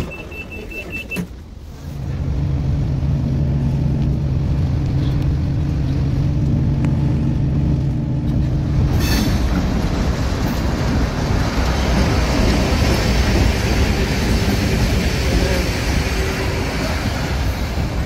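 A heavy vehicle's engine running with a steady low hum; from about nine seconds in, a broad rushing noise of the moving vehicle takes over. A steady high beep sounds and stops about a second in.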